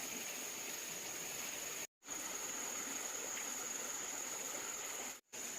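Steady, high-pitched insect trilling, such as crickets, over a hiss of ambient noise. The sound cuts out completely for a moment twice, about two seconds in and near the end.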